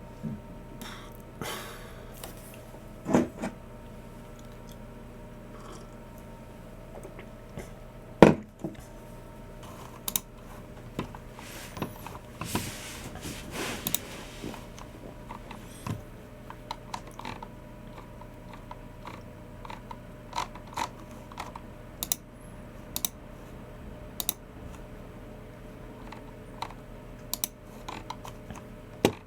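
Irregular keystrokes on a Logitech MX Keys Mini low-profile scissor-switch keyboard, mixed with Logitech G304 mouse clicks, with a louder knock about 8 seconds in, over a faint steady hum.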